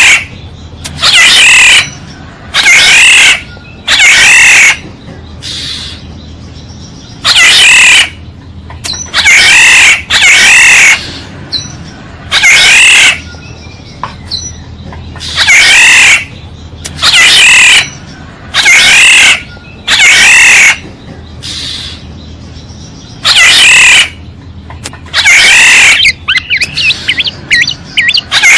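Oriole decoy recording: harsh, squawking calls repeated in pairs every second or two, played loud enough to distort, with faint smaller twittering near the end.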